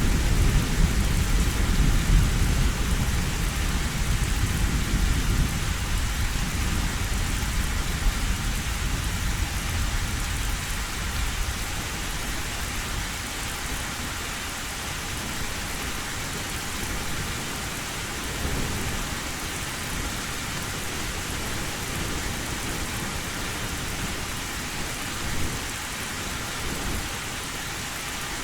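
Heavy rain drumming steadily on an old tin roof. A low thunder rumble at the start dies away over the first ten seconds or so, leaving the rain alone.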